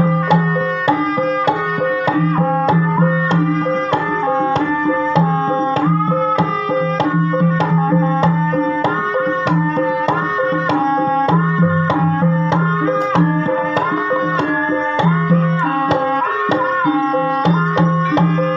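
Javanese gamelan music accompanying ebeg: hand-played kendang drum strokes in a steady, busy rhythm under a melody of struck, ringing notes that step between fixed pitches.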